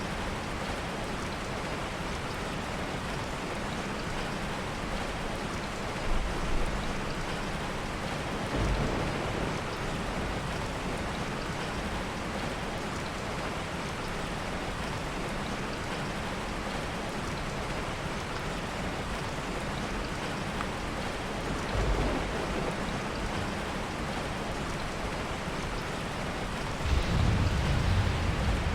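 Steady heavy rain, with soft low rolls of thunder: brief ones a few times and a longer, louder rumble near the end.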